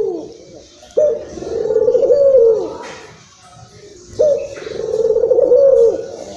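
A local puter dove (collared dove kept as a cage bird) cooing excitedly. Two long phrases about three seconds apart: each opens with a sharp note, runs on through a string of rolling coos and ends on a drawn-out falling note.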